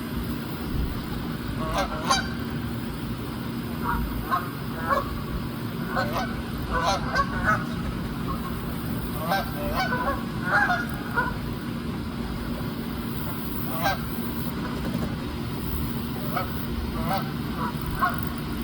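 Several geese honking in scattered clusters of short calls, some bunched in quick runs, over a steady low background rumble.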